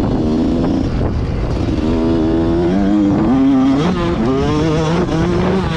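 Motocross bike engine running hard under the rider's throttle, its pitch rising and then falling in steps as the revs drop about four seconds in.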